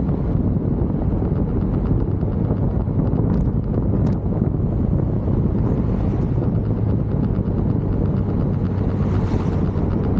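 Steady wind buffeting the microphone over the low, even rumble of a moving vehicle.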